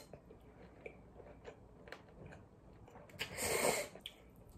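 A person chewing a mouthful of spicy cold noodles and pork belly, with small wet mouth clicks. A short, louder rush of noise comes a little after three seconds in.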